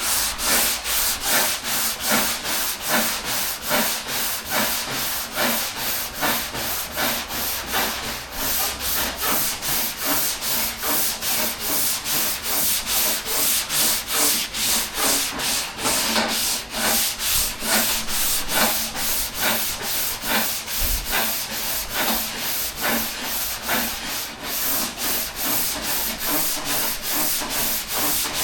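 Hand block sanding of automotive primer with 220-grit sandpaper on a sanding block: quick, even back-and-forth rasping strokes, about three a second, cutting down the guide-coated primer.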